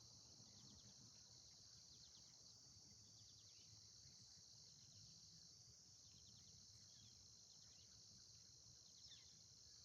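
Faint steady high-pitched chorus of insects, likely crickets, with a few faint bird chirps over it.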